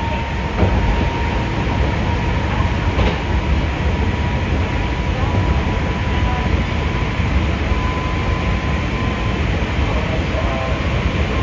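Running sound of a Hankyu 5300-series resistor-controlled electric train, heard from inside the passenger car: a steady rumble with a faint, even whine. A couple of knocks from the wheels come about half a second and three seconds in.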